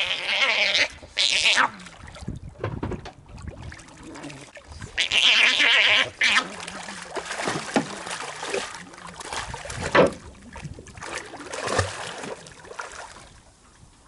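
Otters mating in the water, squealing and splashing: harsh, high-pitched squeals, the longest near the start and about five seconds in, with shorter cries and splashes between.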